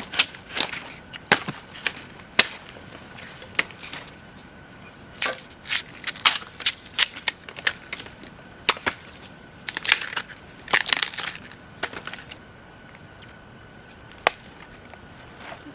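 Irregular sharp snaps and crunches of plant matter being broken, coming in quick clusters. They stop about three-quarters of the way through, with one last crack a little later.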